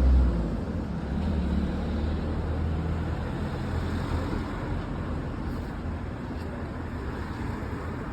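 Motor vehicle engine rumble with road traffic noise, loudest at the start and fading over the first few seconds to a steady hum of traffic.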